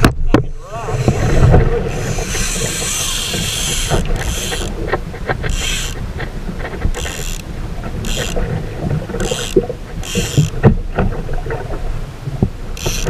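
Water splashing at a fishing kayak on choppy sea, in short hissing bursts about every second and a half, over a steady low rumble of wind on the microphone.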